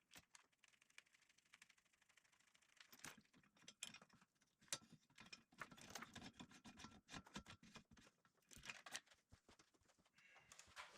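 Faint, irregular metallic clicks and rattles of a steel chain and hand tools being handled, busiest in the middle and latter part.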